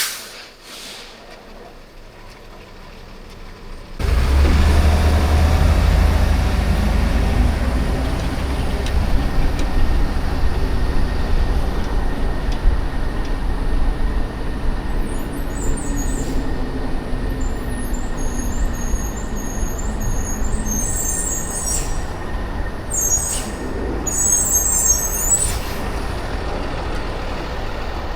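City traffic noise: a steady rumble of vehicles on the road that starts abruptly about four seconds in, after a click and a quieter stretch. Short high-pitched chirps come and go in the second half.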